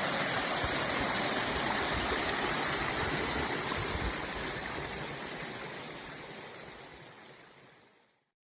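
Small river flowing, a steady rushing of water that fades out over the last few seconds to silence.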